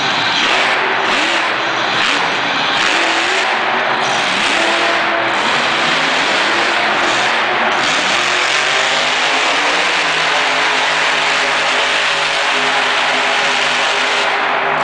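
Grave Digger monster truck's supercharged V8 engine revving hard, its pitch rising and falling again and again through the first half, then held at high, steady power.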